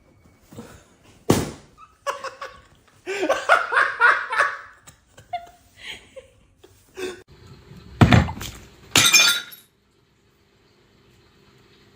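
A sharp knock, then a loud thud followed by a short crash like something breaking, with a voice laughing in between.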